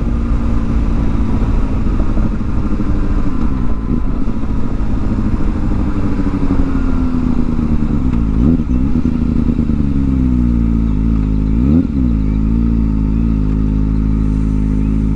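Kawasaki ZX-4R's inline-four engine through a new aftermarket exhaust. It runs steadily, then its note falls over several seconds as the bike slows, and it settles into a steady low idle near the end.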